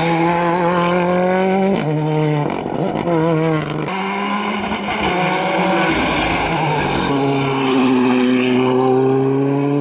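Rally car engine running hard at high revs. Its pitch breaks and steps several times, around two, three and four seconds in and again near seven seconds, as the driver lifts and changes gear.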